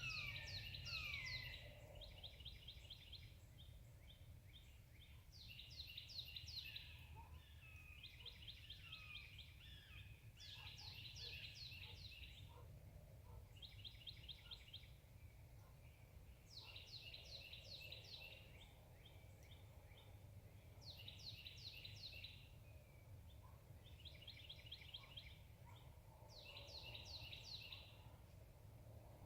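Songbird singing in short phrases of about a second each, repeated every two seconds or so. Bursts of fast down-slurred notes alternate with quick even trills. A faint steady low rumble runs underneath.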